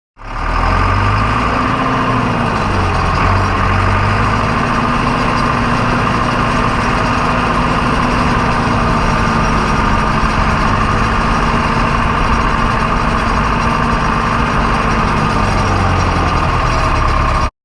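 Tractor engine running steadily at working revs, with a steady higher whine above it. The engine's pitch rises and dips briefly about two to three seconds in, then holds even.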